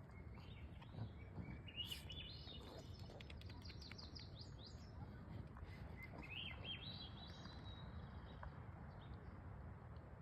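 A songbird singing over a faint, steady low background rumble. A fast run of high chirping notes starts about a second and a half in and lasts about three seconds. A second phrase about six seconds in rises and then holds on one high note.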